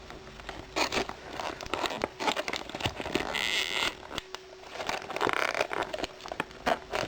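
Packaging being handled: crinkling and rustling with scattered clicks and taps, including a longer crackling rustle about three seconds in and another about five seconds in.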